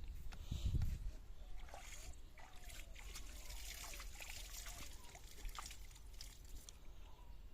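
Water splashing and trickling, with many short sharp splashes and a heavier low splash about half a second in.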